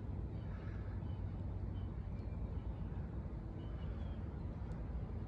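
Outdoor background: a steady low rumble, with a few faint, short high chirps scattered through it.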